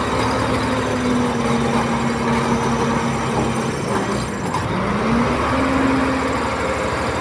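Diesel engine of a Komatsu D31P bulldozer running under load, with a steady whine over the engine. About four seconds in the pitch sags, then rises again as the engine picks back up.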